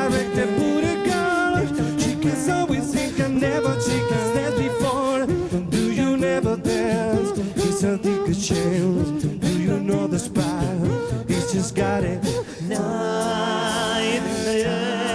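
A cappella vocal group singing a pop song in harmony with vocal beatbox percussion. About twelve and a half seconds in, the beat drops away and the voices hold sustained chords with vibrato.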